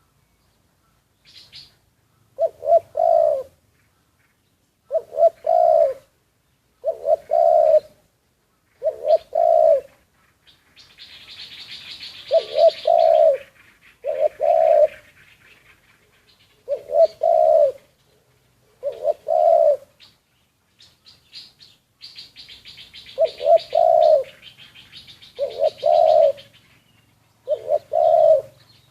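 Spotted dove cooing, a short low phrase repeated roughly every two seconds, with a brief pause about two-thirds of the way through. Other small birds chirp in the background in the middle and toward the end.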